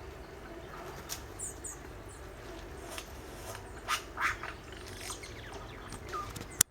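Birds giving short, scattered squawks and chirps over a steady low background. A single sharp click near the end.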